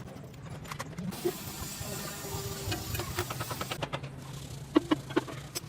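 A steady hiss lasting nearly three seconds, then a few sharp taps near the end, over a low hum.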